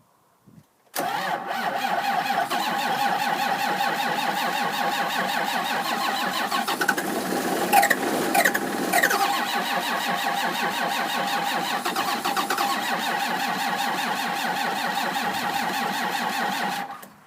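A John Deere 7410 tractor's diesel engine is cranked by its starter after a 0°F night, a steady rhythmic churning with a whine, for about sixteen seconds. It begins suddenly about a second in and cuts off abruptly near the end, as if the key were released. The cold-soaked engine, on its original batteries with only the intake heater cycled, is hard to start.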